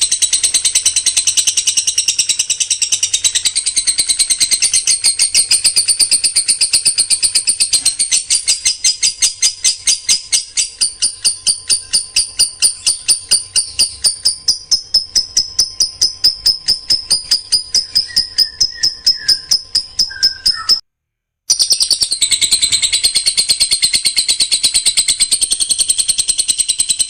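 Songbird song in fast, evenly repeated high notes, the dense rapid-fire 'tembakan rapat' style used in masteran recordings for training caged songbirds. It breaks off for an instant about two-thirds of the way through, then goes on.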